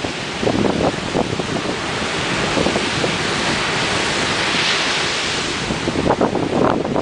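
Ocean surf breaking and washing in a continuous rush, swelling a little over halfway through. Wind buffets the microphone in gusts about a second in and again near the end.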